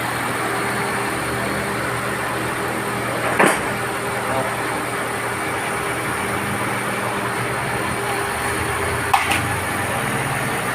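Honda City car engine idling steadily, its air-conditioning compressor not engaging because the fuse for the magnetic clutch is suspected blown. Two short clicks, about three and a half seconds in and again near nine seconds.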